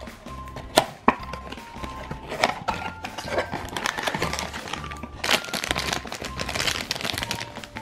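Crinkling of a black foil blind bag being pulled open by hand, after a cardboard box flap is opened, with a couple of sharp snaps about a second in. Background music with a steady beat plays throughout.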